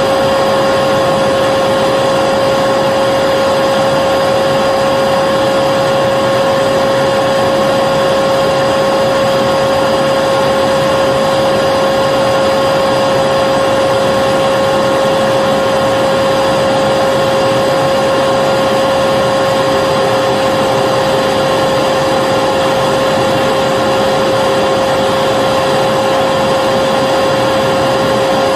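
Vacuum cleaner motor running steadily: a constant rushing hiss with a steady whine, unchanging throughout.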